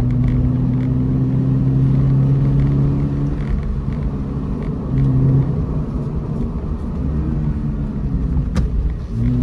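Toyota GR86's 2.4-litre flat-four engine and exhaust droning at a steady pitch while the car cruises, over road rumble. About seven seconds in, the engine note briefly rises and falls in revs.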